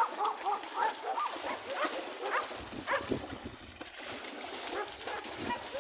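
Dogs giving short whines and yelps in quick succession, most of them in the first three seconds and fewer after.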